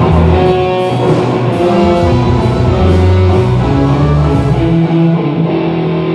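Band music played loud through a PA system during a sound check, with guitar over a steady bass line.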